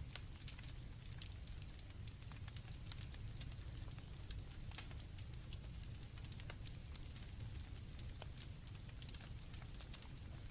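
Campfire crackling, with scattered sharp pops over a low steady rumble, while crickets chirp in a high band.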